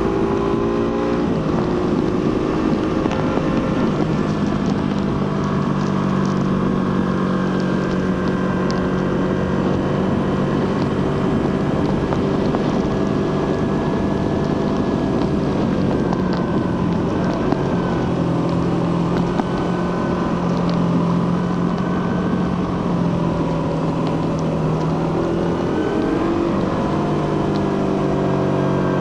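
Suzuki GSX-R150's single-cylinder 150cc engine through its stock exhaust, heard while riding: the revs drop about a second in, then hold steady at cruising speed, and near the end the engine revs up and changes gear.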